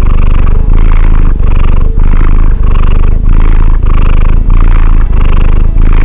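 A cat purring loudly and close to the microphone: a steady low rumble that swells and dips with each breath, about one and a half times a second.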